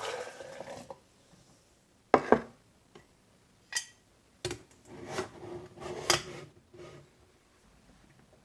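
A few knocks and clinks of hard objects being handled and set down on a surface, with a brief ringing after some of them, like crockery or utensils. The sharpest knock comes about two seconds in.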